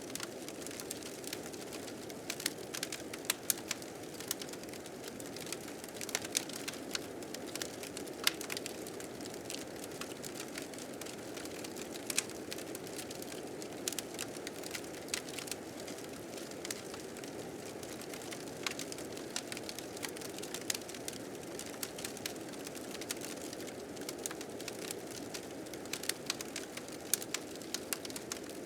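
Wood fire crackling with frequent irregular sharp pops, over a steady low rush of blizzard wind.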